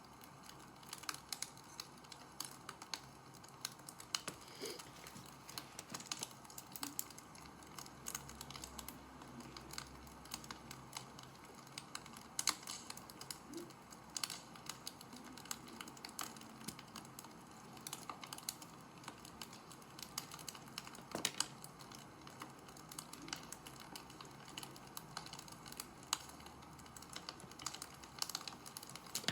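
Wood fire crackling: irregular small snaps and pops over a soft steady hiss, with a few sharper cracks.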